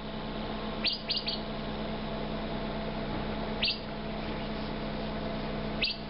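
A bird chirping with short, quick upward-sweeping calls: three in fast succession about a second in, then single calls a few seconds apart, over a steady background hiss.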